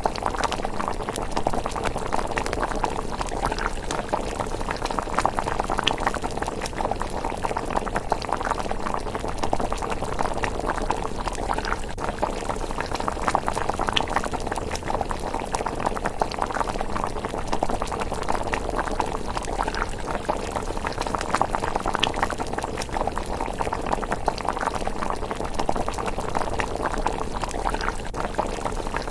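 Pot of miso rice porridge bubbling at a steady simmer, a dense run of small pops and crackles throughout.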